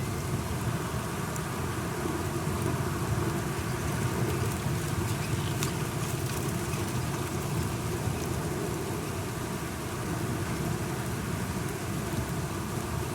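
Steady rain falling, with a low continuous rumble underneath and a few light drip ticks.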